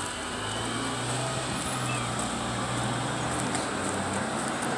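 A motor vehicle's engine running with a steady low hum over street noise, easing off near the end.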